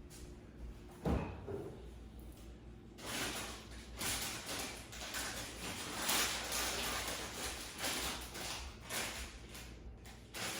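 A single knock about a second in, then several seconds of rustling and small clicks and knocks from things being handled in a kitchen.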